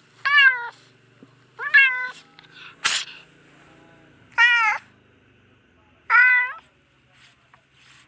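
Domestic cat meowing: four separate meows of about half a second each, every one rising and then falling in pitch. A brief sharp noisy burst falls between the second and third meows.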